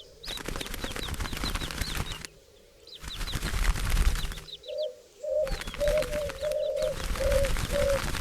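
Birds' wings flapping in a dense clatter that starts and stops abruptly in bursts, with short high chirps over it. From about halfway a dove coos in short low notes repeated about twice a second.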